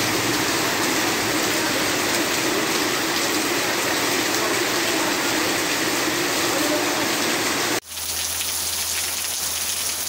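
Heavy downpour on a flooded street: a dense, steady hiss of rain and running water. About eight seconds in it cuts off suddenly to a lighter, thinner patter of rain on foliage.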